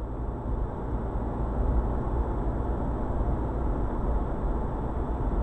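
Steady low rumble of a car driving, with engine and road noise, as picked up by a dashcam.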